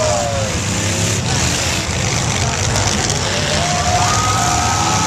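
Several demolition derby cars' engines running and revving together, a loud, steady din with some rising and falling higher tones over it.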